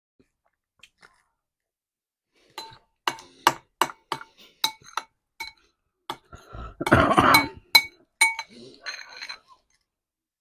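A metal utensil clinking repeatedly against a ringing ceramic dish, about a dozen taps, then a louder stretch of scraping and clinking in the dish about seven seconds in.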